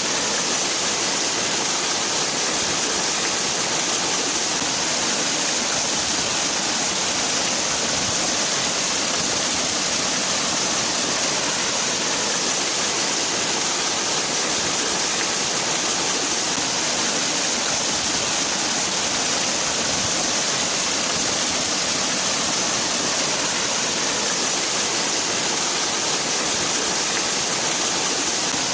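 Waterfall: a steady rush of falling water, constant and hissy, with no breaks or separate splashes.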